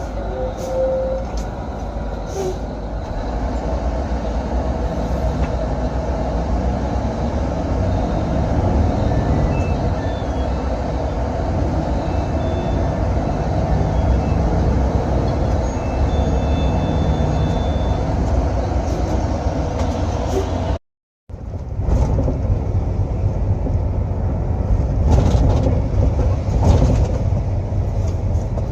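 Intercity coach engine and road noise, a steady low rumble, with the sound cutting out briefly about three quarters of the way through.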